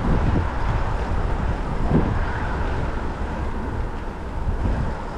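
Wind buffeting the microphone of a rider on a moving electric bike: a steady, loud low rumble.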